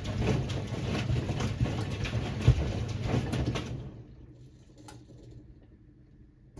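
Siemens WA4600 washing machine drum tumbling a load of jeans in water: a low motor hum with sloshing and small knocks, and one louder knock about two and a half seconds in. The motor stops about four seconds in, leaving a quiet pause, as the drum does between turns.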